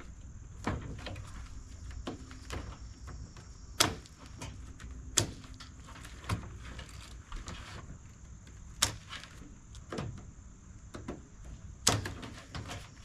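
Scattered sharp metal clanks and knocks, several seconds apart, from sheet-metal panels and parts being handled and pulled loose as a clothes dryer is dismantled.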